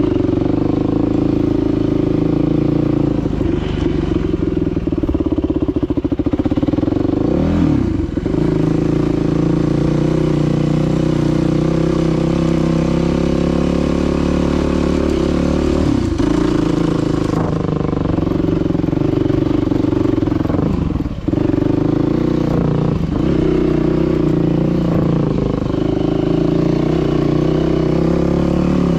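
Dirt bike engine running steadily while riding, with a quick rev about eight seconds in and brief throttle-offs near sixteen and twenty-one seconds.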